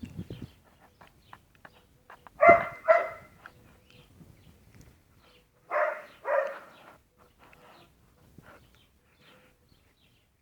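A dog barking twice, then twice again a few seconds later, each bark short and sharp.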